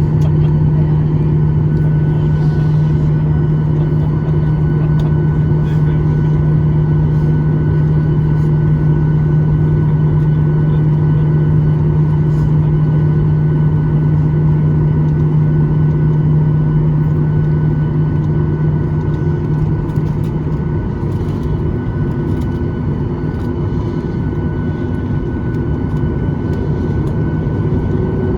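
Steady cabin drone inside a Boeing 737-800, its CFM56 turbofan engines running, with a strong low hum. The hum eases and changes character about three-quarters of the way through.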